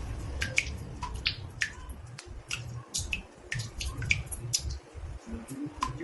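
Water drops falling into a bathtub, irregular short plinks at about two or three a second, some with a brief pitch to them, over a low rumble.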